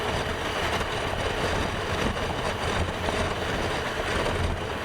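Motorcycle running at a steady speed, its engine hum mixed with road and wind noise on the rider's microphone.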